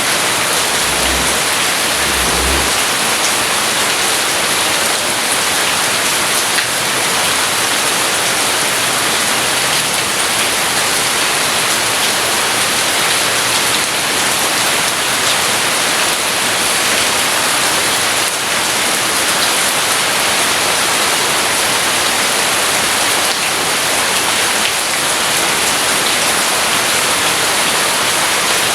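Steady, heavy rain falling as an even hiss, with a brief low rumble about a second in.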